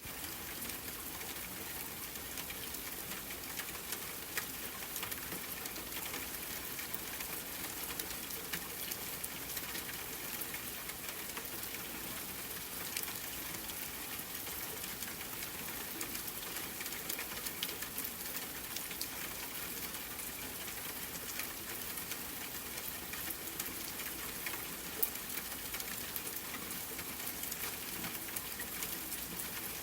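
Steady rain: a dense, even patter of many small drops, with an occasional louder single drop standing out.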